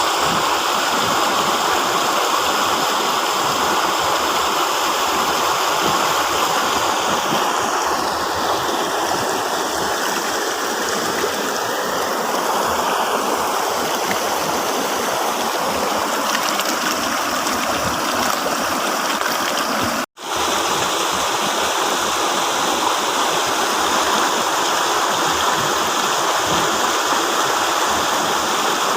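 River water flowing and rushing steadily over rocks, a dense unbroken wash of water noise. About twenty seconds in, the sound cuts out for a split second and then comes straight back.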